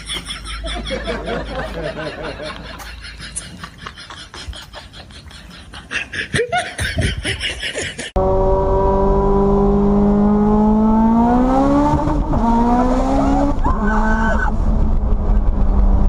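For about the first eight seconds, quieter voices and scattered clicks. Then a car engine comes in loud, heard from inside the cabin, its pitch climbing steadily as it accelerates hard before levelling off.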